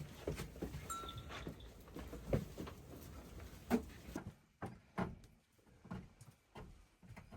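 Goats moving about, with a string of short, irregular knocks and thumps, the loudest around the middle.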